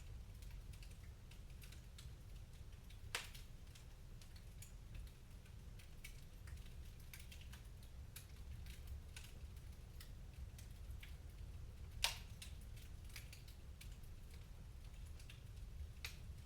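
Wood fire crackling: irregular small snaps and clicks over a low steady rumble, with two louder sharp pops, one about three seconds in and one near twelve seconds.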